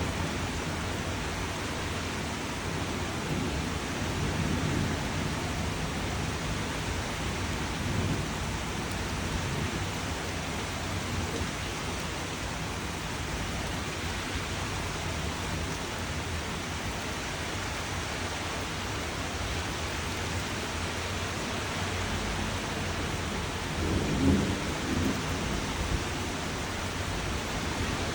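Steady, continuous rain, with a deeper low rumble that swells a few seconds in and again, briefly louder, late on.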